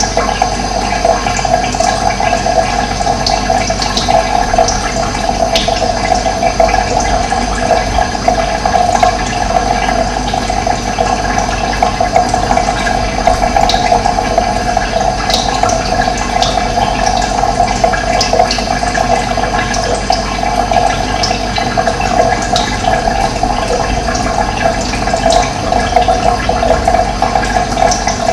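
Steady rush of running water, with short, high bird chirps now and then.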